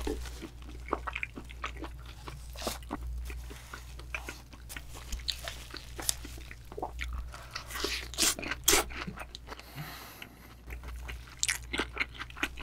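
Close-miked chewing of raw yellowtail sashimi: an irregular patter of wet, crisp crunches and clicks, with a few louder crunches around eight to nine seconds in. A low steady hum runs underneath.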